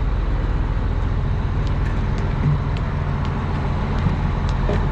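A heavy engine running steadily at idle, a constant low drone.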